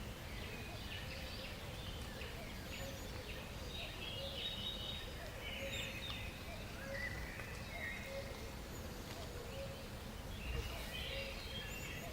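Small birds chirping and trilling over a low wind rumble, with a faint short low note repeating steadily.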